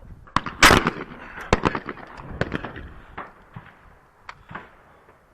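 A shotgun fires once at a thrown clay target about a second in, a loud sharp report. Several fainter gunshot cracks follow over the next few seconds.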